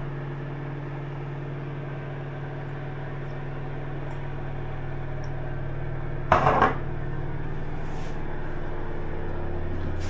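A steady low electric hum, like an appliance motor running, with a brief clatter about six seconds in.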